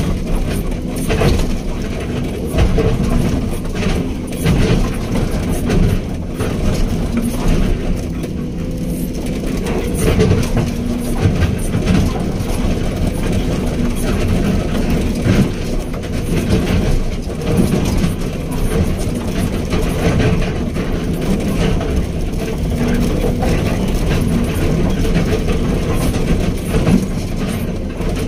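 Backhoe excavator's diesel engine running steadily under load, with irregular rattles and knocks from the working machine.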